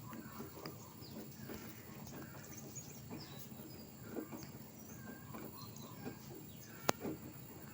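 Scattered faint bird chirps over low background noise, with one sharp click near the end.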